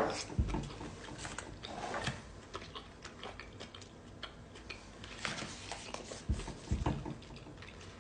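Close-up eating sounds of dumplings being bitten and chewed: scattered soft clicks and wet mouth noises, with a few light thumps around the middle and near the end.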